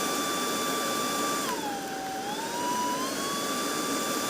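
Cordless stick vacuum cleaner running, a steady motor whine over an airy rush. About a second and a half in, the pitch sags, then climbs back to its earlier level over the next two seconds.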